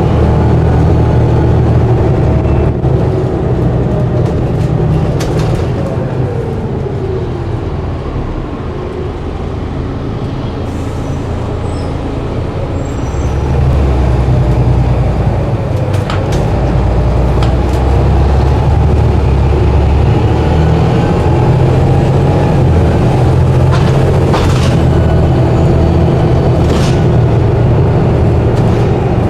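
Diesel bus engine running, the engine note falling away a few seconds in and the bus easing off, then pulling harder again about fourteen seconds in, with occasional rattles and clicks.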